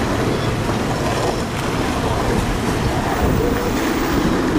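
Steady, loud rumble of a cargo ship's marine diesel engine and machinery.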